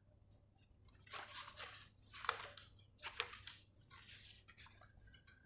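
Faint rustling and brushing of paper in a handful of short scrapes, as the pages of a picture book are handled and turned.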